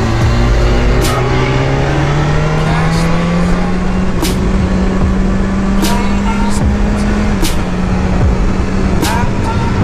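BMW S1000RR inline-four sport bike engine under way, rising in revs over the first four seconds and then holding fairly steady through the bends, with heavy wind rush over the microphone. A few sharp clicks come through now and then.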